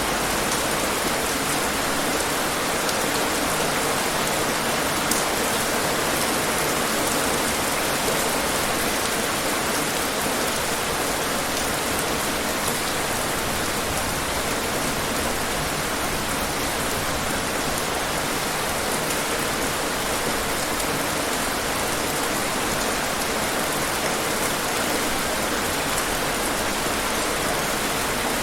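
Steady rain falling, an even hiss of dense drops with the odd sharper drop tick.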